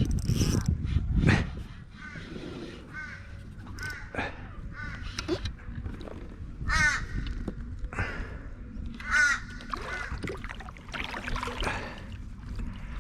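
Crow cawing in a series of harsh, repeated calls, loudest about seven and nine seconds in. A low rumble sounds in the first second and a half.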